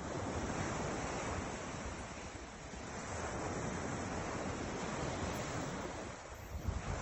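Atlantic surf washing onto the shore, swelling twice as waves come in, with some wind on the microphone.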